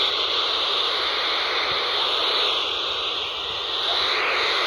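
Steady, loud hiss from an FM radio receiver tuned to UK FM CB channel 1 (27.60125 MHz), with no station audible. This is the open-squelch noise of an empty channel.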